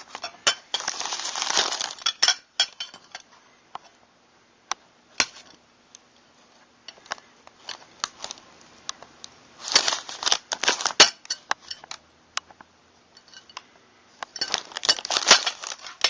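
Metal parts of pump-action shotguns being handled: irregular clicks, knocks and rattles, bunched into clusters about a second in, around ten seconds in and near the end.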